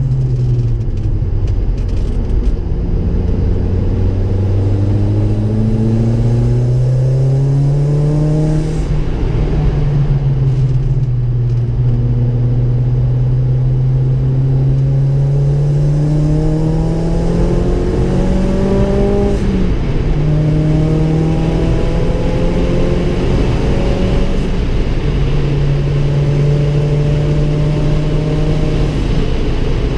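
Ford Focus RS engine heard from inside the cabin while it is driven hard on track, over steady road and wind noise. The engine note climbs under acceleration and drops back sharply twice, about nine and nineteen seconds in.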